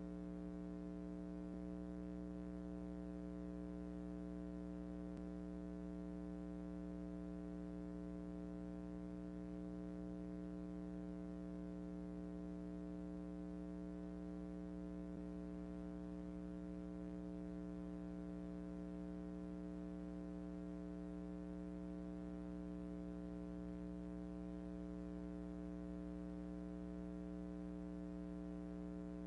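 Steady electrical hum from the recording, a constant low buzz of several tones that does not change.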